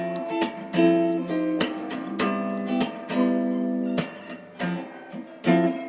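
Background music: an acoustic guitar strumming chords in an even rhythm.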